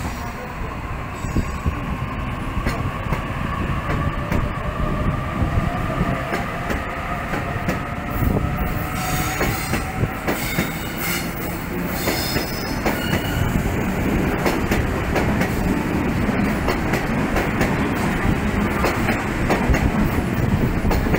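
Sydney Trains double-deck electric train running close past, wheels rumbling and clacking on the rails. A faint rising whine over the first several seconds, then the wheels squeal briefly about halfway through.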